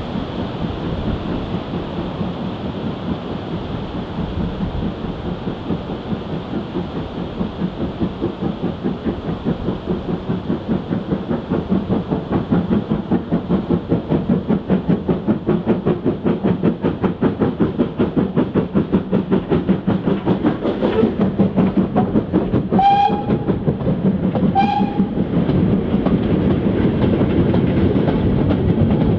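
Steam locomotive working a train past, its rhythmic exhaust beats growing steadily louder as it approaches. Near the end the whistle gives two short blasts.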